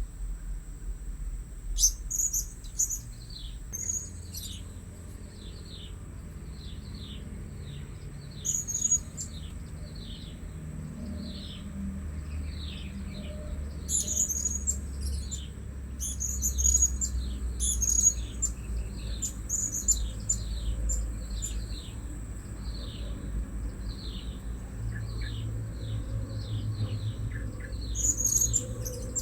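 Blue-crowned hanging parrot (serindit) calls: a steady series of short, downward-slurred chirps, about two a second, broken now and then by clusters of sharper, higher, louder squeaks.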